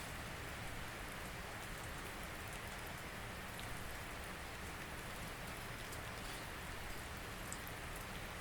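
Steady rain falling, an even hiss with scattered small drop clicks.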